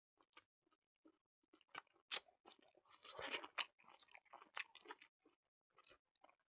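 A person chewing and crunching food close to the microphone: faint, irregular crunches and mouth clicks, busiest about three seconds in.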